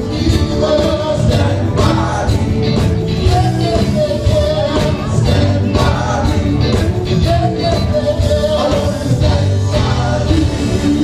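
Gospel singing with a band: voices carrying a melody over a steady drum beat and bass.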